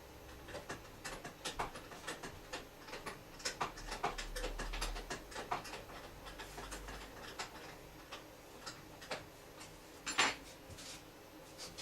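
Irregular metallic clicks and taps of hand tools at work on a car during reassembly, with one sharper knock about ten seconds in.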